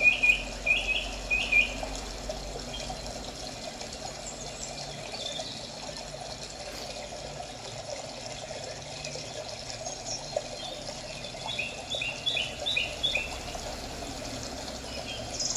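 Small bird chirping in short quick runs of high notes, at the start and again about twelve seconds in, with a few scattered single notes between, over a steady rushing background.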